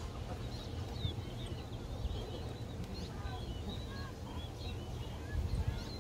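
Birds chirping in short scattered notes, over a low rumble of wind on the microphone.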